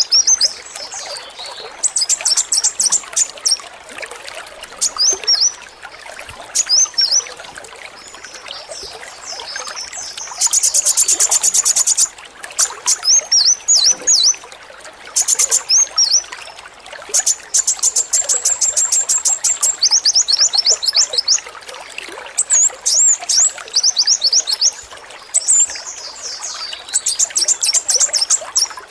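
Male kolibri wulung (brown-throated sunbird) singing: sharp high chirps broken by several rapid machine-gun-like trills lasting a second or two each. Under it runs a steady trickle of water.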